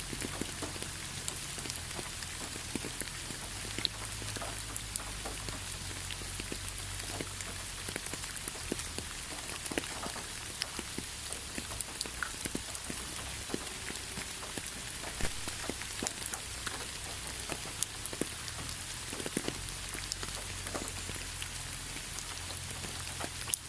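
Steady rain falling, a constant hiss with many individual drops ticking sharply on nearby surfaces.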